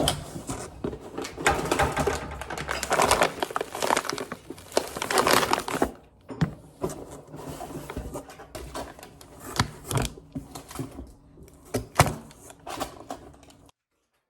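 Indoor handling noises: irregular clicks and knocks mixed with rustling, cutting off abruptly near the end.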